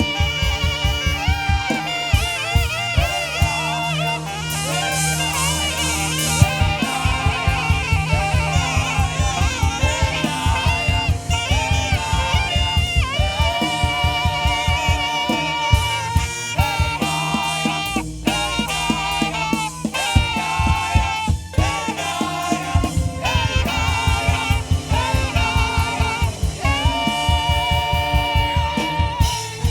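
Live band music led by a saxophone playing a melody with vibrato over a steady drum beat.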